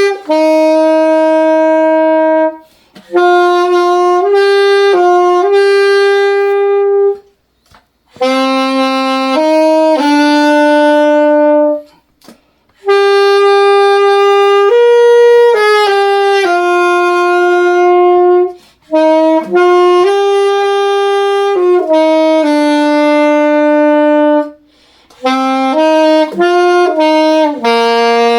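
Solo saxophone playing a slow melody: one line of steady held notes, broken by several short pauses for breath.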